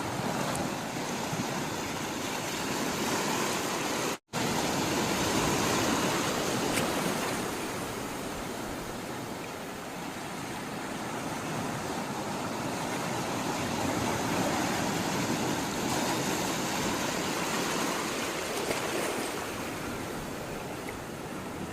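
Sea water rushing and washing steadily, slowly swelling and easing. The sound cuts out completely for an instant about four seconds in.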